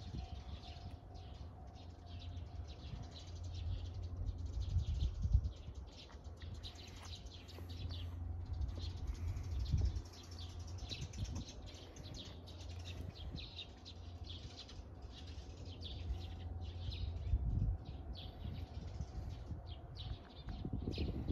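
Small birds chirping repeatedly in quick short calls, over a steady low rumble.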